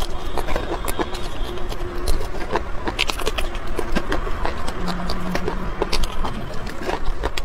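Close-up mouth sounds of raw red chili peppers being bitten and chewed: many sharp, crisp crunches and wet smacks, irregular in timing.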